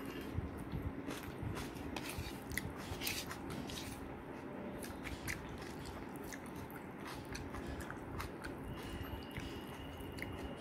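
A person chewing and eating food close to the microphone, with many small scattered clicks and crunches.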